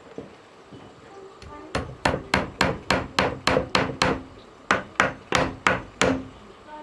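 Hammering, likely on wood: about fourteen hammer blows in quick succession, roughly three a second, starting a second and a half in, with a brief pause midway.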